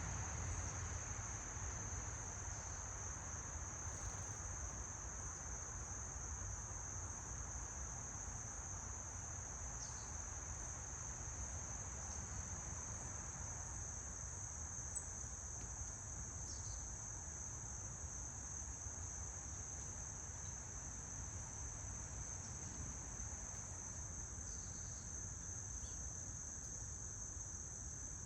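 Insect chorus: a continuous, steady high-pitched drone, typical of crickets, over a low background rumble.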